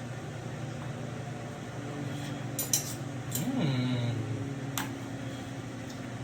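A few light clinks of a utensil against a cooking pot, a short cluster a couple of seconds in and single ones later, over a steady low hum.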